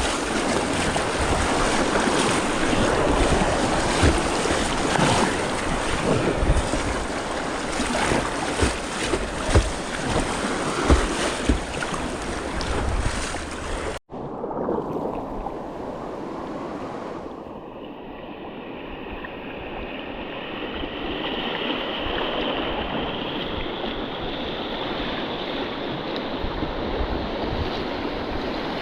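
Rushing river whitewater with wind buffeting the microphone and scattered low thumps. About halfway through, the sound cuts off for an instant and comes back duller and more muffled.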